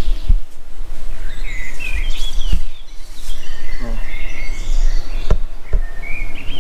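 Songbirds chirping and singing over a steady low rumble, with a few sharp knocks.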